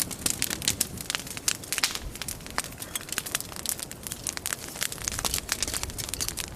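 Log campfire burning with dense, irregular crackling and sharp pops.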